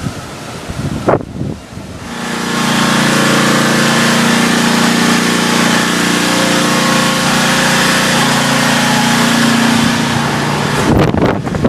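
Storm wind gusting, then a loud steady mechanical hum like a running engine or motor, holding one pitch from about two seconds in until shortly before the end, when the gusting wind returns.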